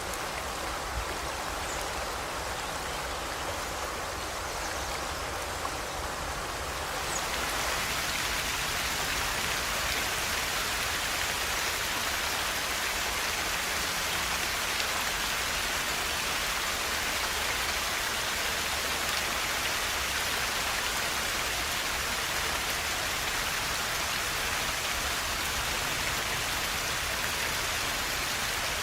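Forest river rushing steadily, a continuous hiss of flowing water. About seven seconds in it turns louder and brighter, with more splash and hiss.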